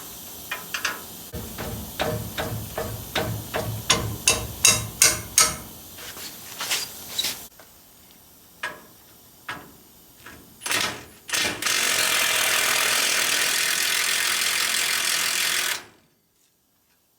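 Ratchet wrench clicking in quick strokes, about two to three clicks a second, as it works at the rusted nuts holding a frame cross member, with a few scattered knocks. Near the end a steady hiss runs for about four seconds and cuts off suddenly.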